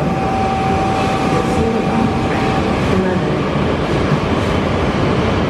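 Shinkansen bullet train moving past a station platform: a steady, loud rumble of wheels and running gear. A thin steady whine stops about halfway through.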